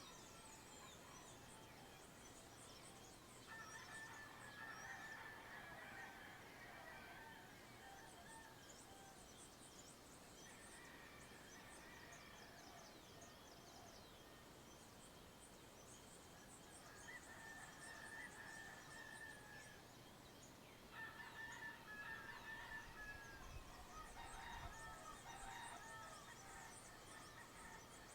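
Faint dawn countryside chorus: domestic fowl calling in bouts of a few seconds, over thin high chirping of small birds.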